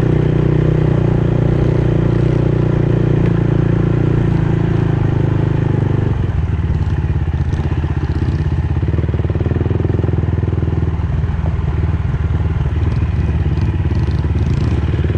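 A vehicle engine running, then dropping to a lower, steady idle about six seconds in.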